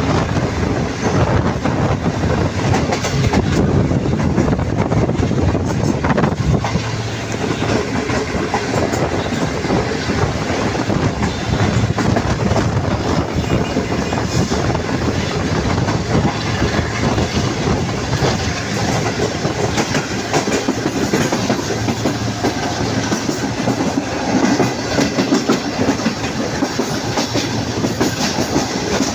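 Passenger train running at speed: a steady rumble of the coaches with the wheels clicking over the rail joints.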